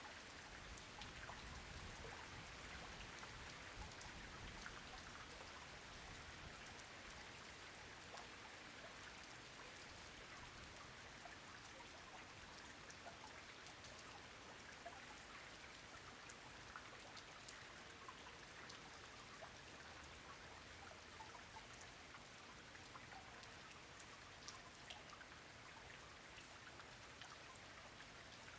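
Steady rain falling, a constant quiet hiss with many small individual drops ticking.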